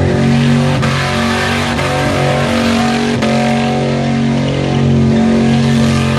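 5.0-litre V8 held at high revs through a burnout with the rear tyres spinning, heard from inside the car; the engine note stays fairly steady with a couple of brief dips. A few sharp clicks stand out over it.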